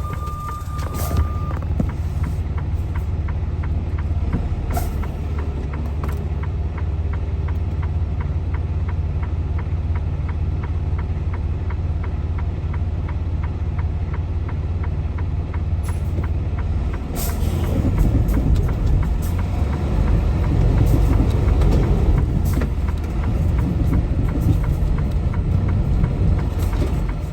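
Semi truck's diesel engine running with a steady low rumble, growing louder about two-thirds of the way through as more throttle is given. The truck is stuck on gravel on an uphill driveway and straining to pull free.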